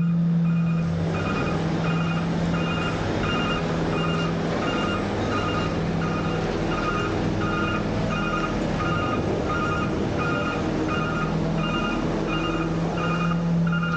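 Garbage truck's reversing alarm beeping steadily, about three beeps every two seconds, over its diesel engine running, as the truck backs up. The beeps start about a second in.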